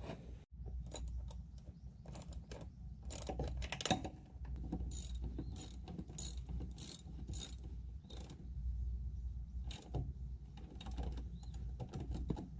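Ratchet wrench clicking in short irregular runs of strokes, with pauses between them, as bolts are worked on the tiller's rotary shaft housing.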